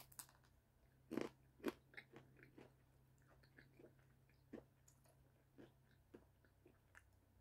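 Crunchy biting and chewing of a deep-fried mini taco: two louder crunches about a second in, then a run of fainter crunching chews that thin out. A faint steady hum lies underneath and stops near the end.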